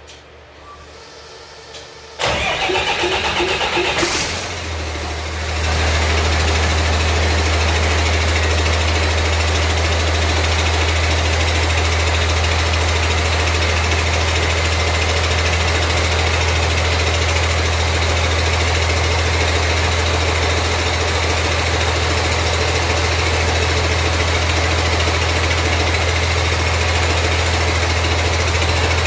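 Cummins 6BT 5.9 inline-six diesel cranked on the starter about two seconds in, catching after a couple of seconds and settling into a steady idle. The engine's air compressor is loud over the running engine.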